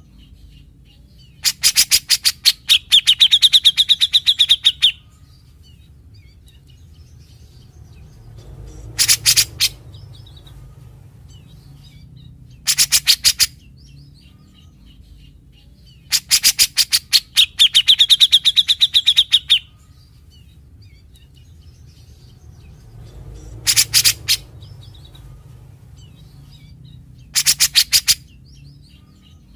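Grey-cheeked bulbul (cucak jenggot) singing in bursts of rapid, harsh rattling notes, its characteristic 'besetan'. Twice a burst runs into a longer, higher held note. The same sequence of phrases comes round again about every 15 seconds, over a faint low hum.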